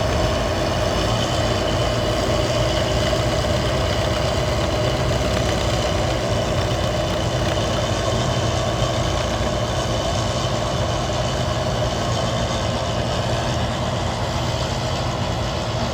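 Bizon Z056 combine harvester's diesel engine running steadily, with a constant mechanical hum and a steady whine over its low rumble.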